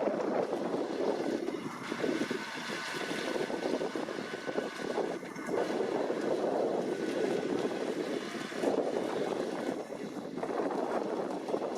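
New Holland T7.290 tractor running in the field with a KUHN hay tedder working behind it, the sound rising and falling every few seconds, with wind noise on the microphone.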